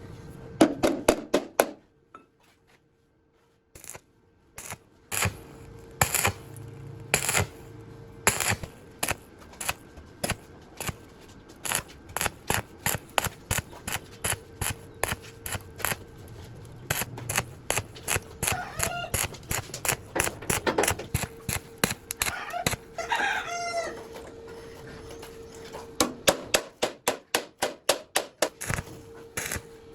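Repeated sharp knocks or taps, in quick runs near the start and near the end and slower, about one or two a second, in between. A chicken clucks a few times around the middle.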